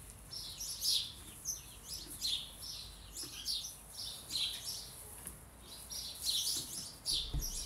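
Small birds chirping: a dense run of short, high chirps, several a second.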